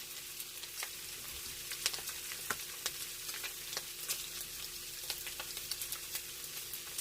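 Pork, garlic and onion stir-frying in a hot pan: a steady sizzle with frequent small pops and crackles.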